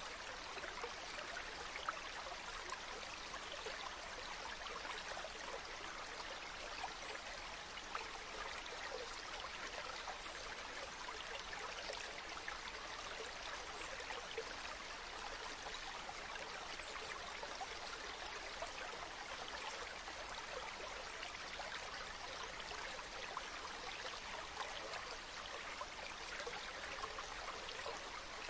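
Water of a small stream running steadily, an even rush with small splashes and no change throughout.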